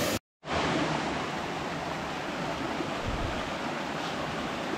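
Waterfall pouring into a pool, a steady rush of falling water, cut off for a split second near the start.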